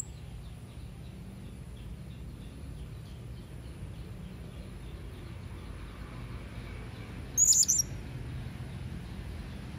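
Hanging parrot (serindit) calling: faint high chirps, then a short burst of loud, very high-pitched shrill notes a little past the middle, over a low steady background rumble.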